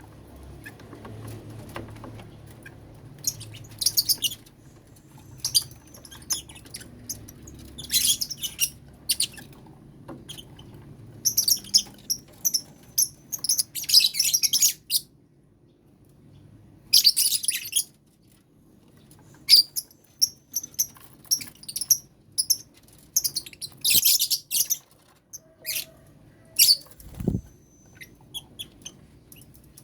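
Lovebirds in a colony cage chattering in clusters of short, shrill chirps and squawks, with quiet pauses between bursts. There is a single low knock near the end.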